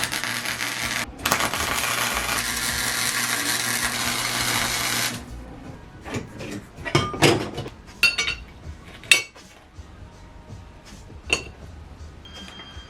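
A power tool runs steadily for about five seconds, then stops abruptly. A string of scattered knocks and clinks of metal tools or parts being handled follows.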